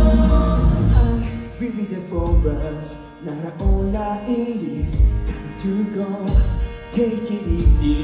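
Live rock band music at a concert, with strong bass notes and sustained chords.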